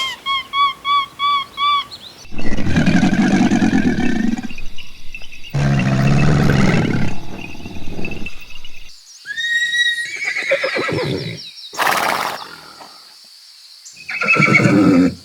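A string of different animal calls cut abruptly one after another: a quick series of six short chirps, then several longer calls, one of which sounds like a horse whinnying.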